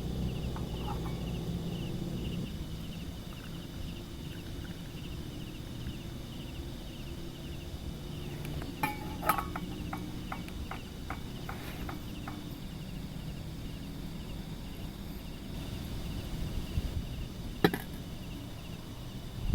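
Insects chirping steadily over a low hum. A run of light clicks and taps comes around the middle, and a sharp click comes near the end.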